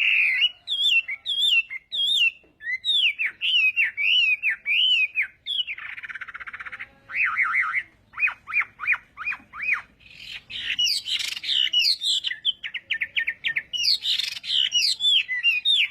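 Chinese hwamei singing a loud, varied song of whistled slurring notes, with a harsh buzzy note about six seconds in followed by a quick run of repeated notes, then more rasping, tumbling phrases.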